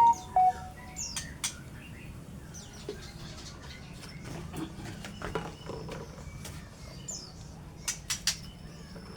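White-rumped shama giving two clear whistled notes at the start, then scattered short chirps and sharp clicks, the loudest cluster about eight seconds in.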